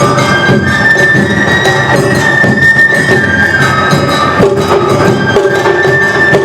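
Awa Odori festival music played live: a bamboo flute holds long high notes, stepping between pitches, over fast, driving drums and percussion.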